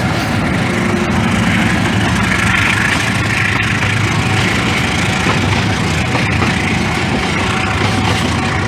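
Passenger train running past with a steady, loud rumble of wheels on rail and diesel locomotive engine noise, with a few faint clicks.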